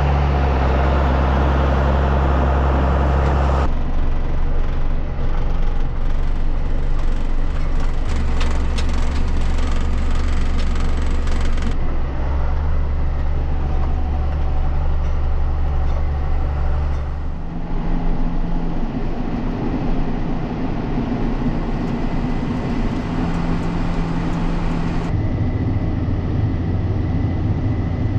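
John Deere 7510 tractor's diesel engine running steadily under way, in several cut-together clips; the pitch of the engine drone shifts abruptly at each cut.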